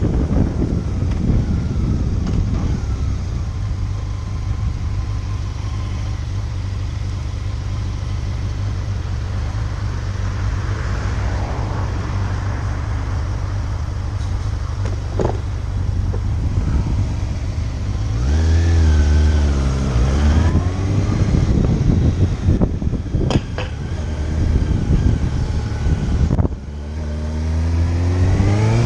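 Motorcycle engine running under way with steady wind noise on the microphone. The engine note rises as the bike accelerates about two-thirds of the way through, then dips briefly before rising again near the end.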